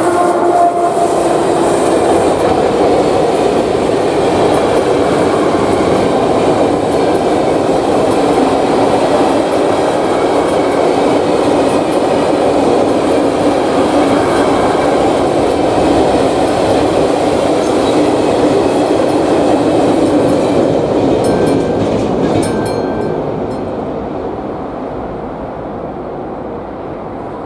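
A freight train passing, with a long, steady, loud rumble of its wagons on the rails that fades away over the last few seconds.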